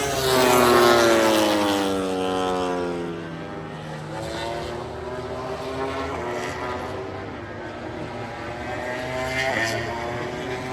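MotoGP race bikes' four-cylinder 1000 cc engines passing at speed. One goes by loudly about a second in, its pitch falling as it passes, and further bikes are heard at a distance later, with another passing near the end.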